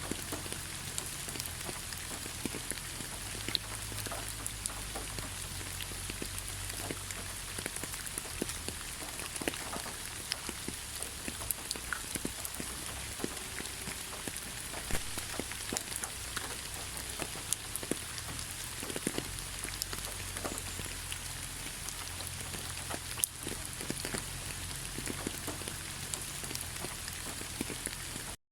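Steady rain falling in a pine forest, an even hiss with many individual drops ticking close by. The sound cuts out for a moment right at the end.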